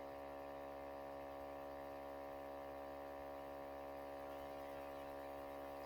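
Steady electrical mains hum with many even overtones, a low buzz picked up in the recording chain.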